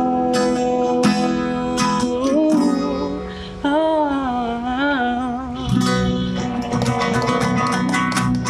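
Acoustic guitar strummed and picked after the end of the song's chorus, with a wordless wavering sung line near the middle.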